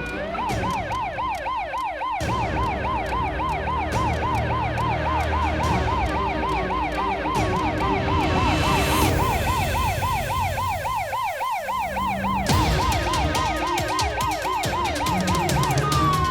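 Electronic emergency-vehicle siren rising and falling in quick, even sweeps, about three a second. Near the end a second siren tone comes in, gliding downward.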